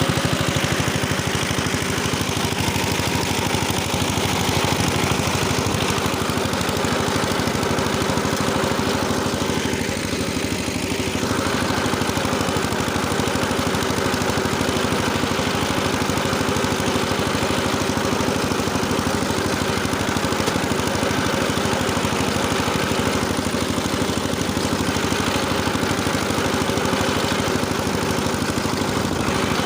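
Engine of a rotary tiller running steadily while tilling soil.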